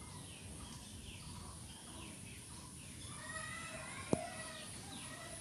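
Faint birds chirping over steady background noise, with one sharp click about four seconds in.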